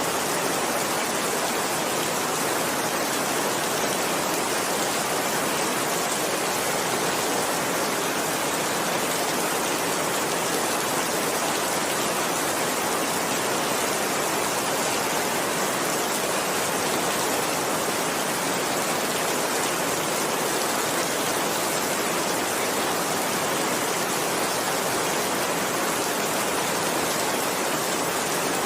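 Steady heavy rain: an even, unbroken hiss of downpour, with no thunder in this stretch.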